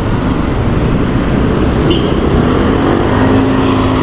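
Road traffic noise, steady throughout, with a motor vehicle's engine hum coming in about two seconds in and holding to the end.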